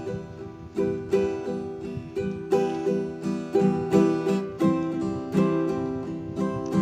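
Background music: plucked acoustic guitar picking a melody, the notes starting several times a second.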